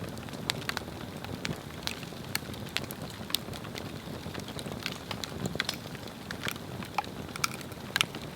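Swedish torch log burning: a steady low rumble of flame with frequent sharp, irregular crackles and pops from the wood, one louder pop near the end.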